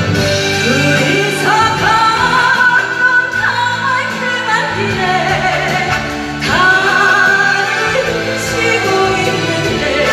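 A woman singing a slow Korean ballad over instrumental accompaniment, her long held notes wavering with vibrato. A new sung phrase begins about a second and a half in, and another about six and a half seconds in.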